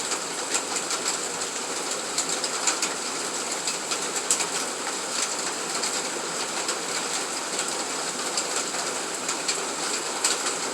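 Steady rain falling, with many single drops tapping close by.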